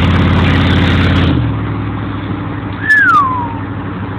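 Straight-piped 1996 Yukon's V8 exhaust running with a steady, loud drone, then easing off to a lower, quieter note about a second and a half in. Near three seconds in, a short high squeak slides down in pitch.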